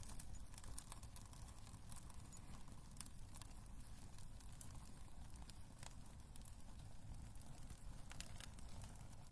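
Wood fire crackling in a fireplace: scattered small pops and snaps over a faint, steady low rumble.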